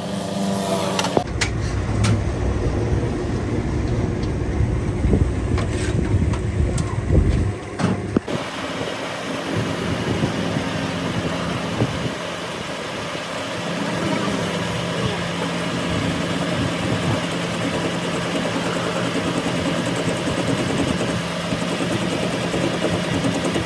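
An engine running, with a heavier low rumble for the first several seconds, then settling into a steady hum.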